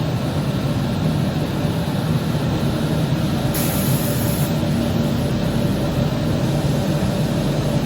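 Automatic laminated glass cutting machine running with a steady mechanical hum and rumble, with a hiss of about a second about three and a half seconds in.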